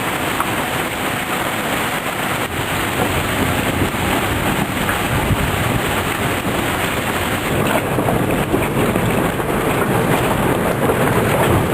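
Steady rushing noise of a storm's wind and rain, a little louder in the second half.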